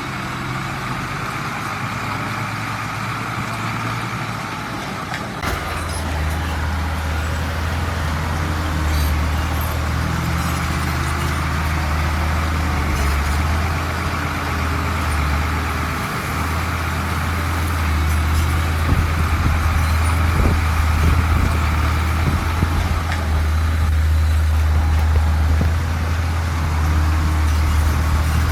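Heavy diesel engine of earthmoving machinery running steadily, with a deep drone that grows stronger about five seconds in and gets a little louder near the end.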